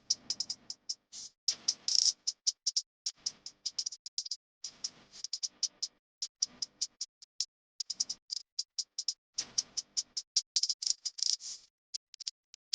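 Quick, irregular clicking and rattling that comes in clusters separated by short pauses, with no speech.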